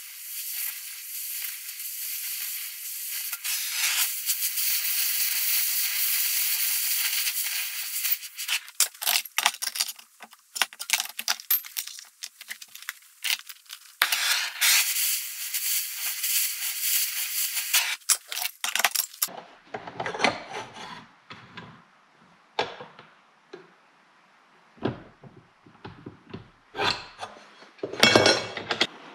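Two long stretches of steady, high hissing from a metalworking tool working steel, about eight and five seconds long, with scattered clicks and clinks of metal parts being handled between them and after.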